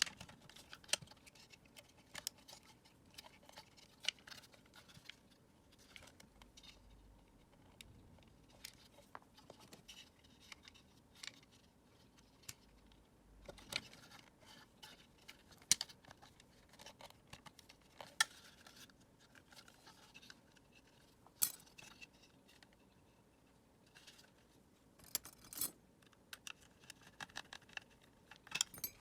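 Irregular small clicks, taps and short scrapes of plastic parts and tools being handled while a Dyson vacuum cleaner is taken apart, a few of them sharper than the rest.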